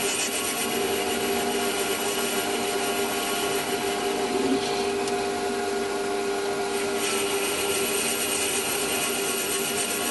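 Metal lathe running steadily while a boring bar cuts the inside of a bore: a steady machine hum under a cutting hiss. The hiss grows stronger about seven seconds in.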